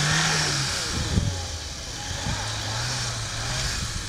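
Lada Niva's engine working hard as it ploughs through deep snow, its pitch rising and then dropping, then climbing again about two and a half seconds in. A sharp knock about a second in.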